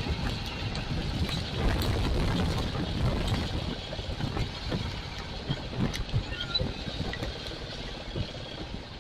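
Royal Enfield Classic 350's single-cylinder engine running with road noise while riding. The engine eases off a little about three and a half seconds in.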